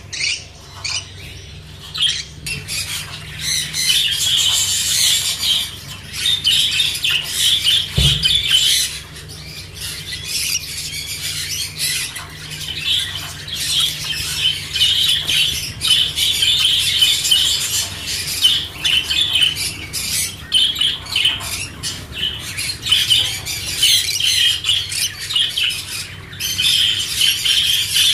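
A flock of budgerigars and lovebirds chattering and squawking continuously, with a brief low thump about eight seconds in.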